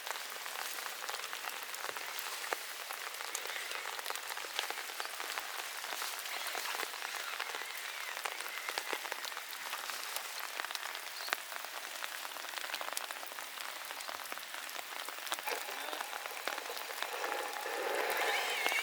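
Steady rain falling, with many separate drops ticking on nearby surfaces, and a short louder sound near the end.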